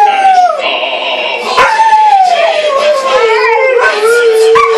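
Two dogs howling together in long, drawn-out howls, one sliding down in pitch while the other holds a lower steady note. A fresh falling howl starts about a second and a half in.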